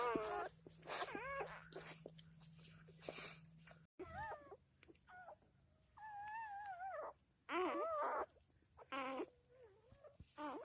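Newborn puppies squealing and whimpering in short, high, wavering cries, one after another, with a brief gap about four seconds in.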